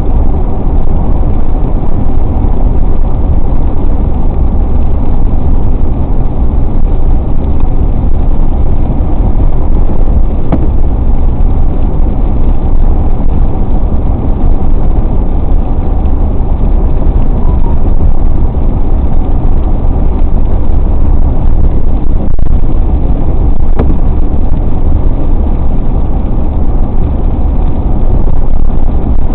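Steady road noise inside a moving car at highway speed: a constant low rumble of engine and tyres.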